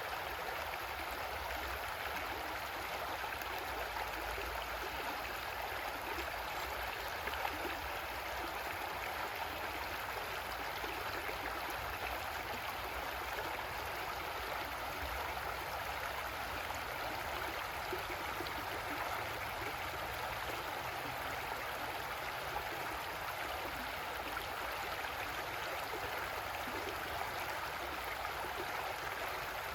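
Creek water flowing steadily over rocks, a constant rushing and gurgling.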